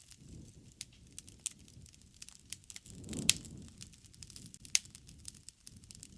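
Campfire crackling: scattered sharp pops over a low rush of flame. The loudest pop comes about three seconds in, on a brief swell of the flames, and another sharp pop comes near five seconds.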